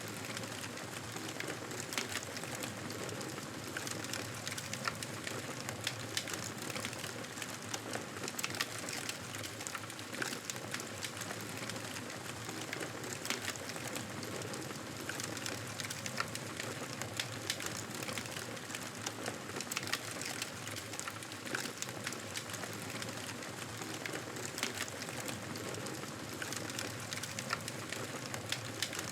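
Wood fire crackling: a steady hiss with frequent small, sharp pops and snaps scattered irregularly throughout.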